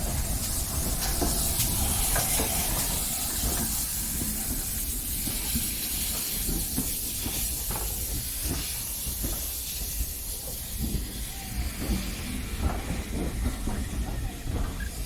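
Steam locomotive hissing as steam escapes, loudest over the first few seconds and then fading, over a steady low rumble. Scattered short clanks and knocks through the second half.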